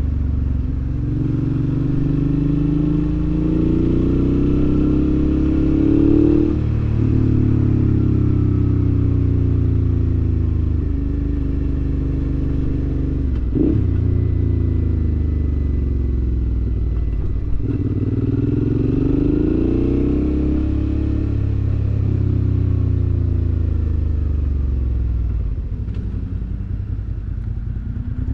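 2019 Suzuki V-Strom 650's 645 cc V-twin engine running through a Delkevic aftermarket exhaust with the baffle out, heard from the bike while riding. It pulls up through the gears, each pull rising in pitch and then breaking at a gear change. It then holds a steady cruise and eases off near the end.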